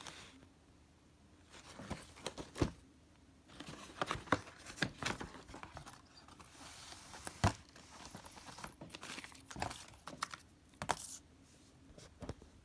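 Fireworks packaging being handled: irregular rustling and crinkling of wrapping with light clicks and knocks, a longer stretch of rustling about two thirds of the way through.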